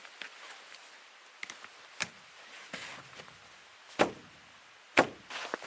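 Three sharp knocks or thuds, about two, four and five seconds in, the last two the loudest.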